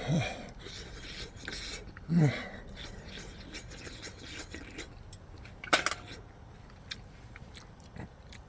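A person eating hotpot from a bowl: two short murmured hums with a falling pitch, then a brief cluster of utensil clicks against the dishware and a few light ticks.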